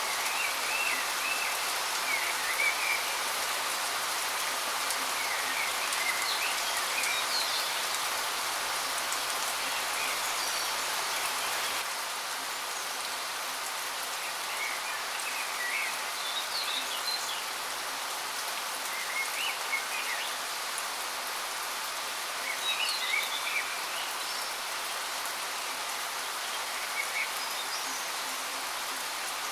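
Waterfall's steady rush of falling water, with small birds chirping now and then over it. The water noise drops slightly about twelve seconds in.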